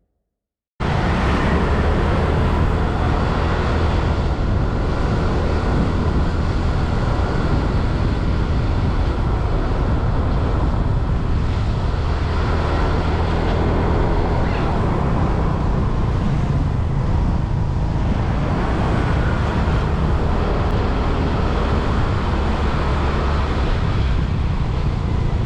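Motorbike ride through traffic: steady engine, road and traffic noise with a heavy low rumble, cutting in suddenly about a second in after a moment of silence.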